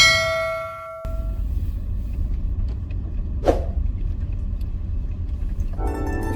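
A ringing chord fades out within the first second, then a steady low outdoor rumble with a faint hiss carries on, broken by one short sharp sound about three and a half seconds in. Music with plucked, harpsichord-like notes comes in near the end.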